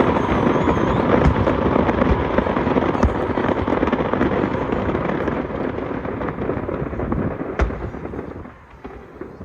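Aerial fireworks display: a dense, continuous crackle of many bursts, with one sharp bang about three-quarters through. The crackle then dies down near the end.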